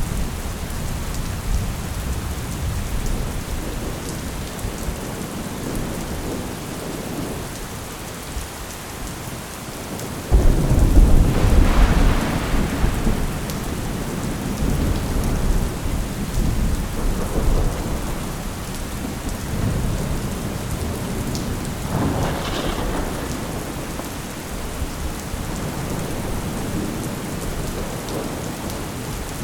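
Thunderstorm: steady rain falling, with a sudden loud clap of thunder about ten seconds in that rumbles on for several seconds. A fainter crack follows about twenty-two seconds in.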